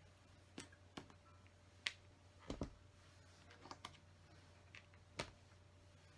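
Small plastic LEGO pieces clicking as they are handled and pressed onto the build: scattered faint separate clicks, with one duller knock about halfway through.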